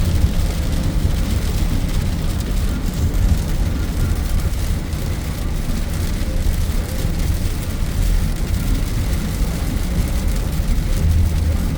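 Steady hiss of heavy rain over a strong, unsteady low rumble. The rumble swells near the end.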